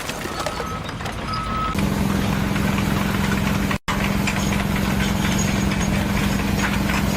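A vehicle engine running steadily with a low, even hum, starting about two seconds in and cutting out for an instant near the middle. Two short faint beeps come just before it.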